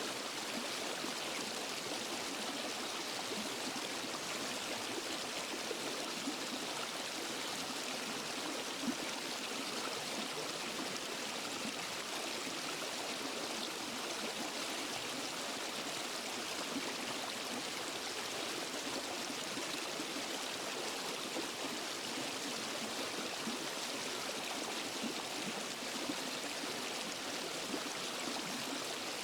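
Waterfall and forest stream water rushing steadily over rocks: an even, hissy splashing with little deep rumble.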